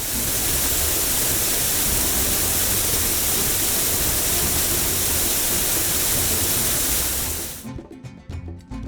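Car-wash water spray sound effect: a loud, steady hiss of a spraying jet over background music, fading out about seven and a half seconds in.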